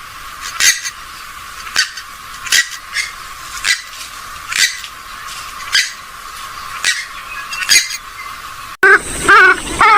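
Recorded calls of a rail-family waterbird: short, sharp squawks repeated about once a second. Near the end the recording cuts to a louder run of wavering calls that rise and fall in pitch.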